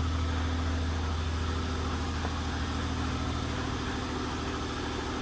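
A car engine idling steadily, a continuous low hum.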